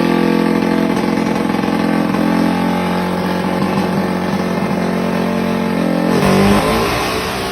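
Tuned single-cylinder four-stroke Honda Wave drag-racing motorcycle engine at full throttle on a dyno, held steady at high revs. About six seconds in, the pitch drops sharply and then starts climbing again.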